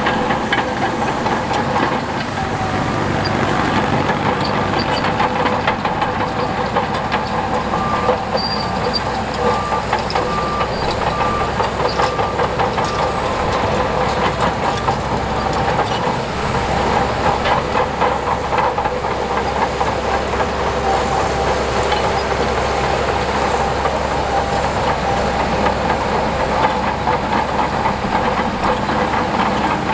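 Heavy diesel earthmoving machinery running steadily, with a dense rapid clanking like steel crawler tracks. About a third of the way in there are several seconds of regular beeping, roughly one beep a second.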